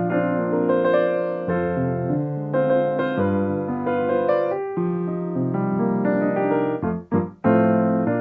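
Solo piano playing slow, sustained chords under a melody. The sound briefly cuts out about seven seconds in.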